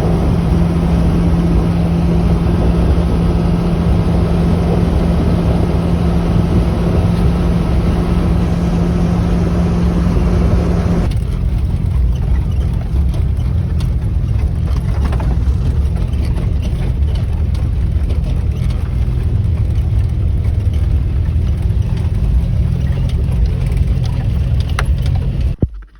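Motor vehicle engine running steadily with a strong low hum. Its pitch drops a little about eleven seconds in, and the sound cuts off abruptly near the end.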